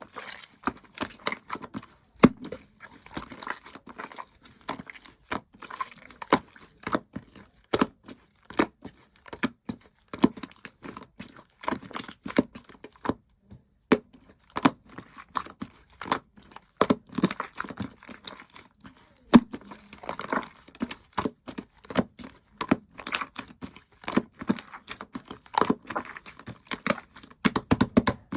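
Slime being squished and pressed by hand, making irregular sharp pops and crackles, with a short pause about halfway through.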